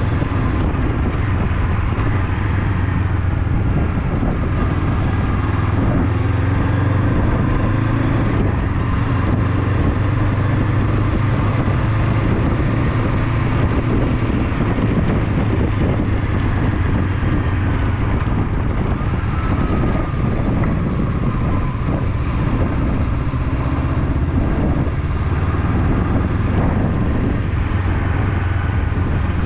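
Motorcycle engine running steadily under way, its pitch drifting up and down gently with the throttle, under a steady rush of road and wind noise.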